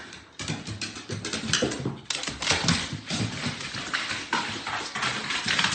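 A dog's claws clicking and clattering in quick, irregular steps on hard stairs.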